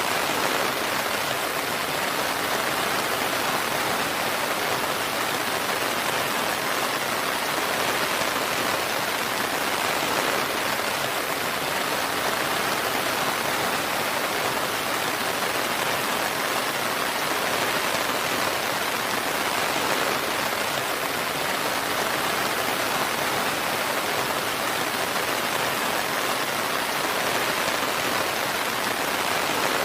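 Steady rain falling, an even unbroken hiss of many drops with no change in strength.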